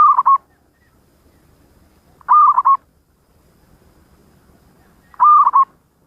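Zebra dove (perkutut) cooing: three short, loud cooing phrases, each a quick run of notes around one pitch, repeated about every two and a half to three seconds.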